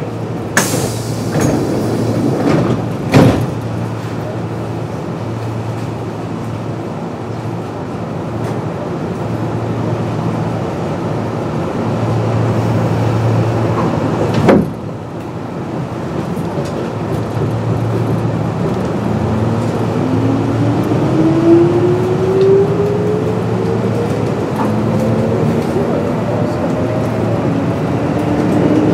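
Kintetsu 8600 series electric train at a station stop, heard from on board. Doors close with a knock about three seconds in and a second sharp knock comes about halfway. The train then pulls away, its traction motors and gears whining in several tones that climb steadily in pitch as it accelerates.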